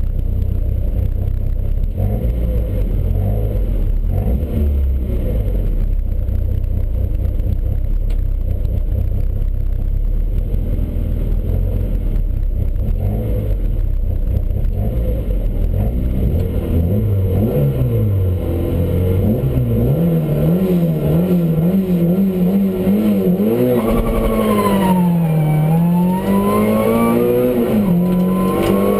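Rally car engine heard from inside the cockpit: a heavy, rumbling idle at the start line, then hard acceleration, its pitch climbing and dropping back several times with the gear changes.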